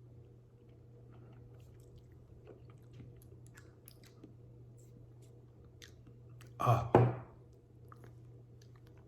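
Quiet mouth sounds, small lip smacks and tongue clicks, as a man tastes a few drops of extremely hot sauce. About seven seconds in come two sharp, loud bursts of breath in quick succession, a reaction to the heat.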